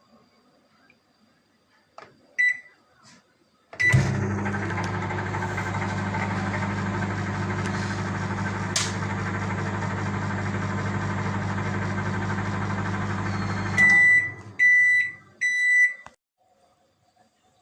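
A 900-watt microwave oven: a keypad beep, then the oven runs with a steady hum for about ten seconds, with one sharp click partway through. Three beeps near the end signal that the heating cycle is done.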